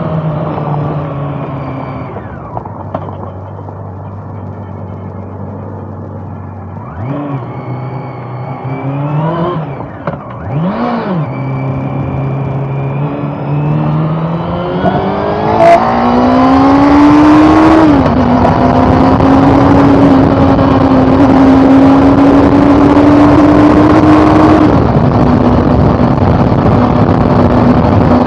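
Honda CB400 Super Four's inline-four engine idling, blipped twice, then pulling away and accelerating hard, with a sudden drop in revs at each of two upshifts, and wind rushing over the microphone once it is under way.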